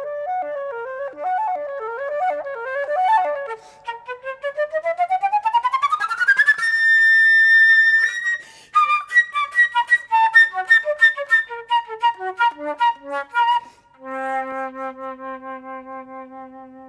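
Unaccompanied flute playing a fast virtuosic passage: a quick rising run of rapidly tongued notes climbs to a high held note about halfway through, then quick figures tumble downward to a low note that is held and slowly fades near the end.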